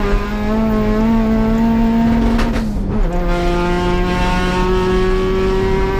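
Race car engine running hard at high revs, its pitch climbing slowly. About two and a half seconds in, the note breaks with a couple of clicks and drops lower, as at an upshift, then climbs again.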